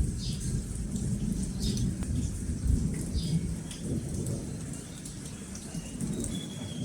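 Low rolling thunder under a rain hiss, with a bird giving short falling chirps every second or so and a thin held whistle near the end.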